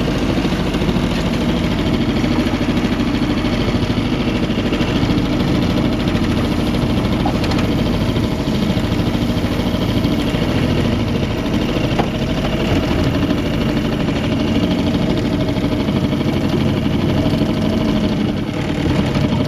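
Outboard motor on a jon boat running steadily, with a brief slight dip in level near the end.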